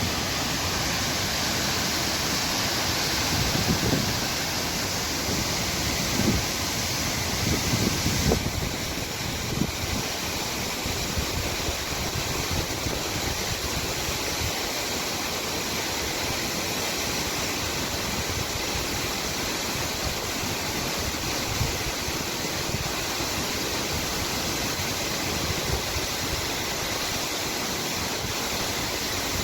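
Steady rush of a high mountain waterfall. Wind buffets the microphone in gusts during the first several seconds.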